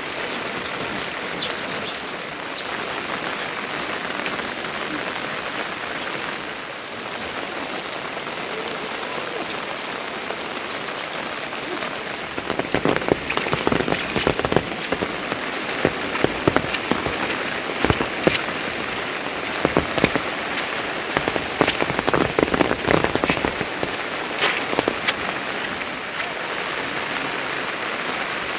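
Steady rain falling. From about halfway through it is joined by many louder, sharper drops and drips striking close by.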